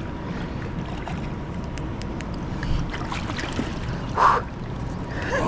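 Wind rumbling on the microphone over the steady rush of moving river water, with a brief noisy burst about four seconds in.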